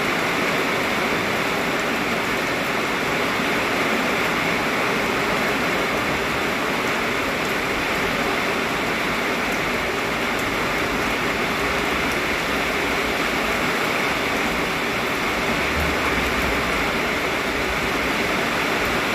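Very heavy rain pouring down steadily, a dense unbroken hiss.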